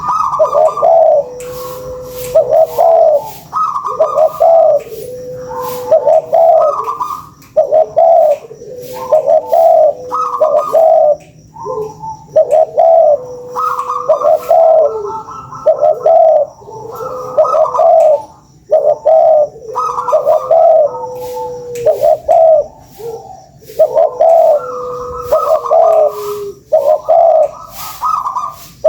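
Spotted dove (tekukur) cooing loudly, phrase after phrase with short pauses between: the lure call used to set other doves cooing.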